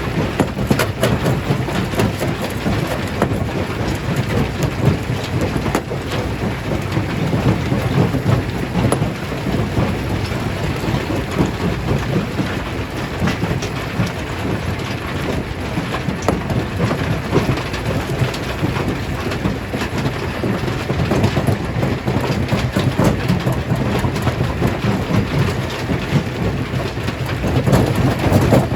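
Stone crusher running and breaking rocks: a continuous dense crackle and clatter of stone over a steady low machine rumble.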